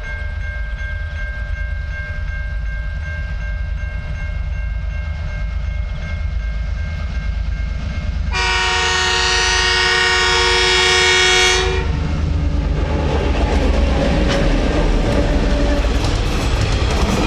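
TasRail DQ class diesel locomotives running with a steady low rumble, sounding one long horn blast of about three seconds starting about eight seconds in. Then the locomotives and empty ballast wagons pass close by, their wheels clattering over the rail joints.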